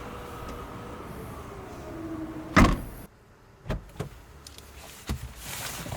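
A car's small electric motor whirring with a whine that falls slowly in pitch for about two and a half seconds, ending in a sharp clunk, followed by a few light clicks.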